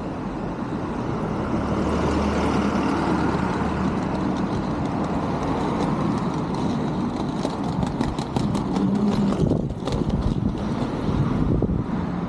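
Street traffic: a motor vehicle passing close by with a low engine hum and tyre noise, swelling about two seconds in, with crackling wind noise on the microphone in the second half.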